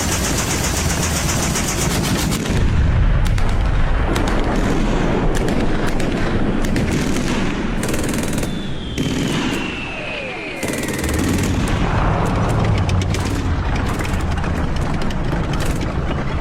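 Battle sound effects: rapid machine-gun fire and gunshots with booms. About halfway through a whistle falls in pitch for a couple of seconds, followed by a heavy low rumble as the firing goes on.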